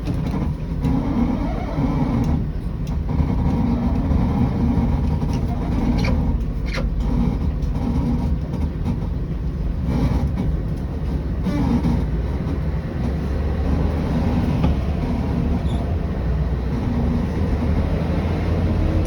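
Scania 113 bus's diesel engine running steadily, with a few short clicks and knocks over it.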